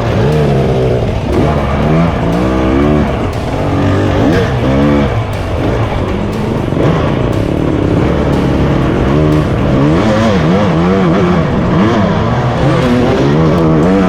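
Dirt bike engine revving up and down over and over, the pitch rising and falling every second or so as the throttle is worked on rough trail.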